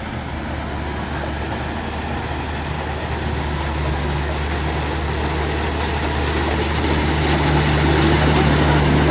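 Rice combine harvester's diesel engine running with a steady low hum, growing gradually louder.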